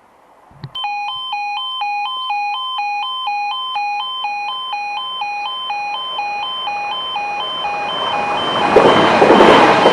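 Level crossing warning alarm sounding, a loud two-tone warble that switches rapidly between a lower and a higher note, starting suddenly about a second in. Near the end a loud rushing rumble builds under it as a train comes through.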